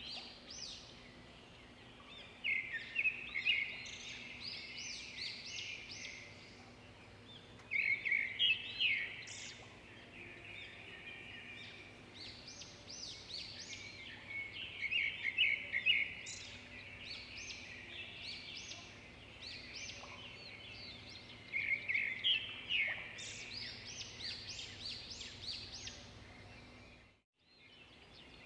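Swiftlets twittering: phrases of rapid, high chirps come every few seconds over a steady low hum. The sound drops out briefly near the end.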